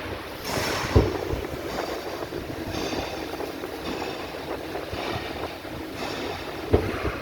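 Steady rushing background noise with two sharp knocks, one about a second in and one near the end.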